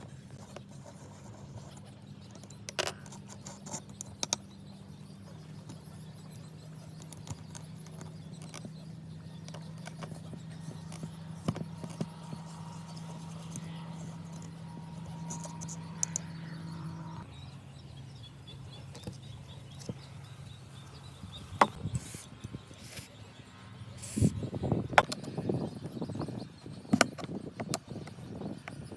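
Workshop handling sounds of tools and small metal parts: scattered clicks and knocks, growing into a busier clatter near the end, over a low steady hum that stops about two-thirds of the way through.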